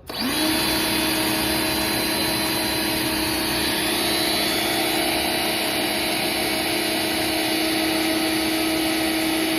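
Makita MHW0700 electric pressure washer switched on: the motor spins up within about half a second, then runs at a steady pitch with a strong hum.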